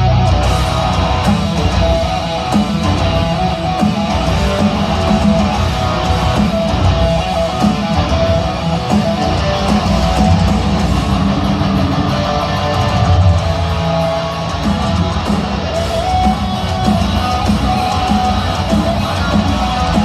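Heavy metal band playing live with electric guitars, loud and continuous.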